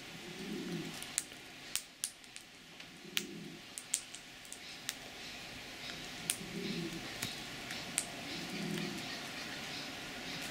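Sharp, irregular clicks and taps of a bird pecking at and eating its food close to the microphone, with a soft low murmur every couple of seconds.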